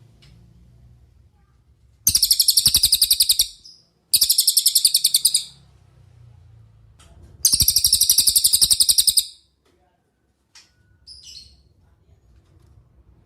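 Cililin songbird singing three loud, fast, high trills of about ten sharp notes a second, each lasting one to two seconds, then a few short, softer calls.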